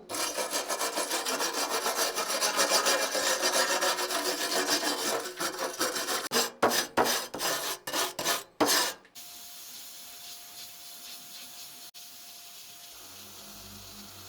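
Hand-worked abrading strokes, as with sandpaper, a file or a scraper, rubbing fast and evenly over a surface, about three to four strokes a second. Around six seconds in the strokes slow to a few separate ones. After about nine seconds they give way to a quieter steady hiss, and a low hum starts near the end.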